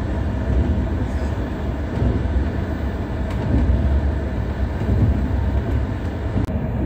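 Passenger train running, a steady low rumble of wheels on the track heard from inside the carriage.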